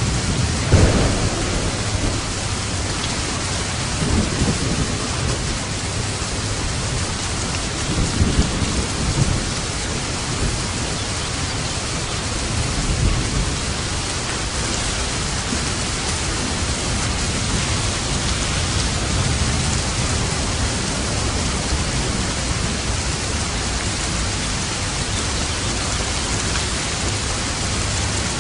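Steady heavy rain in a thunderstorm, with rolls of thunder rumbling several times in the first half, then rain alone.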